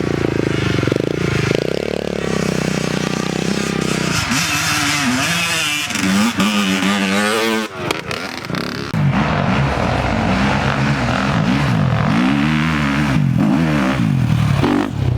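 Dirt bike engine running under load, its pitch rising and falling again and again as the throttle is opened and closed, with a short drop in revs about eight seconds in.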